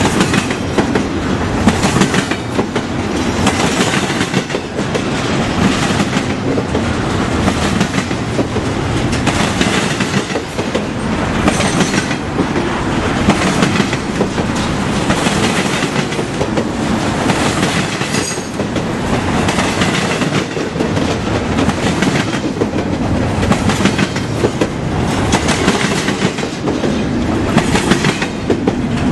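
Train rolling past at close range: steady wheel-on-rail noise with repeated clicks as the wheels cross the rail joints.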